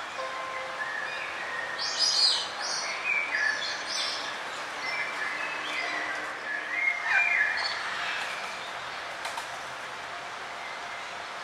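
Several forest birds chirping and trilling over a steady background hiss, with the busiest calls about two seconds in and again near seven seconds.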